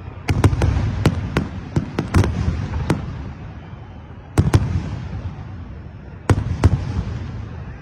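Fireworks bursting in three volleys: a quick string of sharp bangs through the first three seconds, two more about four and a half seconds in, and two near the end. Each volley trails off in a low rumbling echo.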